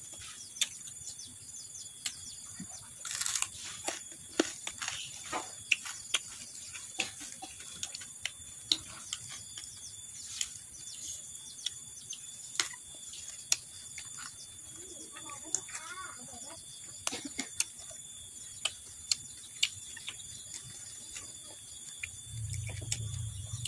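Close-up mukbang eating sounds: sharp crunches, smacks and chewing clicks as raw greens, papaya leaves and raw jengkol are bitten and chewed, over a steady high chirring of insects. A low hum comes in near the end.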